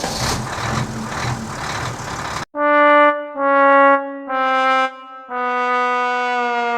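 A rumbling, hissing noise for about two and a half seconds. Then a brass-like horn sounds four notes, each a little lower than the one before, and the last is held long.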